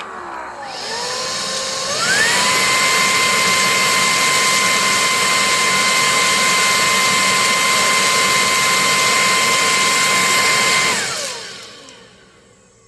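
ANAK cordless stick vacuum's motor spinning up with a rising whine that steps up in pitch about two seconds in, running steadily and loudly, then switched off and winding down with a falling whine near the end.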